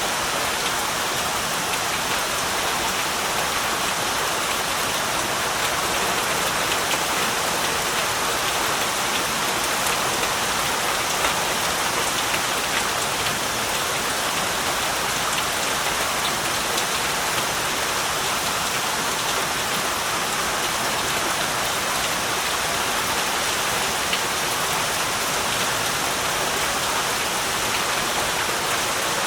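Heavy rain falling steadily, a dense, even hiss of drops striking surfaces with fine patter throughout.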